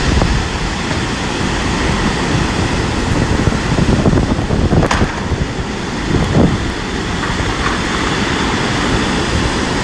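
Strong storm wind buffeting the microphone: a loud, steady rushing noise heaviest in the low end, with stormy surf under it.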